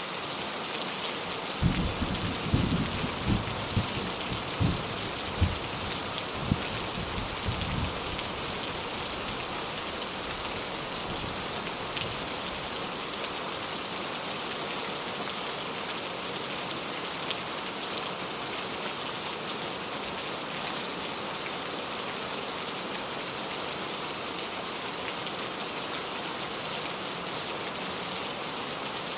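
Steady rain falling, an even hiss throughout. A low, uneven rumble of thunder comes in about two seconds in and rolls on for several seconds before fading.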